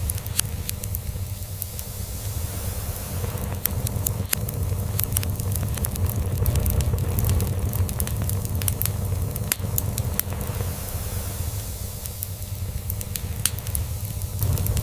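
Log fire crackling, with many irregular sharp pops over a steady hiss. Beneath it runs a cat's steady low purr.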